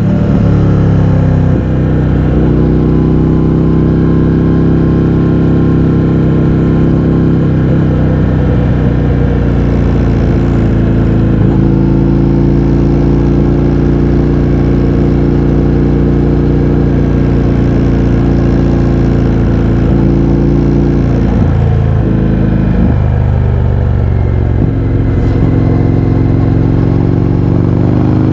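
Indian FTR 1200's 1203 cc V-twin running through an Akrapovič exhaust with the baffles removed, under steady throttle while riding. The revs dip briefly about a second and a half in and twice more around two-thirds of the way through, as at gear changes, then rise again near the end.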